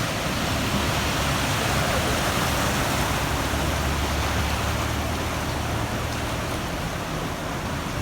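Steady rush of heavy rain mixed with traffic on a waterlogged road, with a low engine rumble that swells a little midway.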